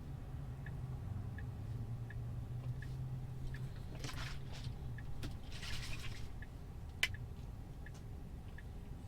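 Car turn-signal indicator ticking steadily, about one tick every 0.7 s, over a low cabin hum. Two brief rustling noises come about halfway through, then one sharp click about two-thirds through, the loudest sound.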